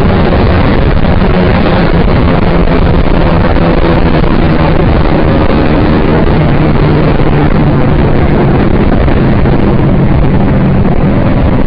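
Yamaha R15 V3's 155 cc single-cylinder engine running at a steady cruise through an aftermarket SC-Project exhaust, under heavy wind noise on the microphone.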